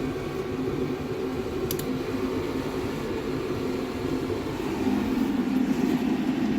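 Diesel air heater running at full burn, its burner and blower fan making a steady hum that gets a little louder about five seconds in. A short click comes about two seconds in.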